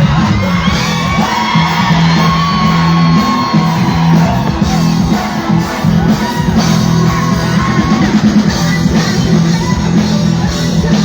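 Live band playing a song, with singing and some yelling over it.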